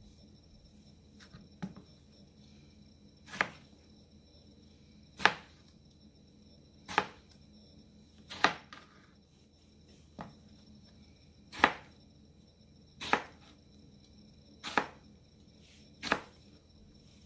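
Kitchen knife cutting slowly on a cutting board: about ten separate knocks, one every second and a half or so.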